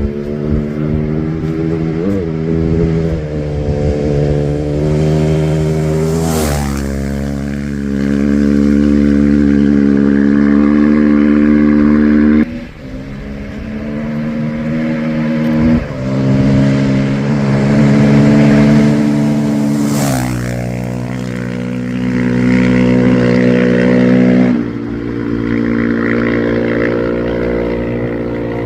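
Rally-raid competition vehicle's engine heard on board, running hard under load on a special stage. The engine note holds fairly steady, then changes abruptly four times, with a sharp click at two of those changes.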